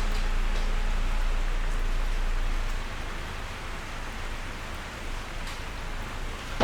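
Steady rain falling, an even hiss of many drops. A low rumble underneath drops away about three seconds in, and the sound gets quieter from there.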